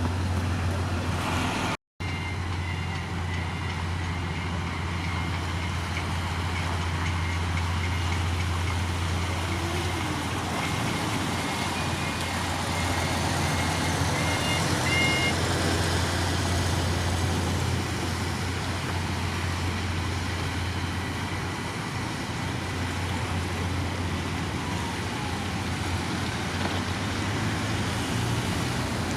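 Heavy diesel engine of earthmoving machinery running steadily with a low drone. The sound cuts out briefly about two seconds in.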